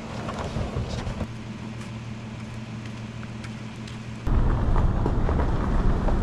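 Low rumbling wind noise buffeting the microphone outdoors, jumping suddenly louder about four seconds in.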